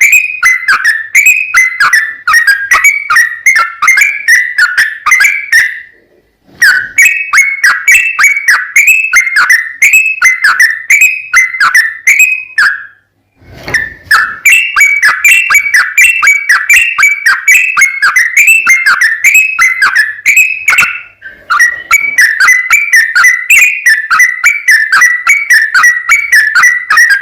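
Yellow-vented bulbul (trucukan) singing a rapid, unbroken run of short whistled notes, about three or four a second, with brief pauses about six, thirteen and twenty-one seconds in.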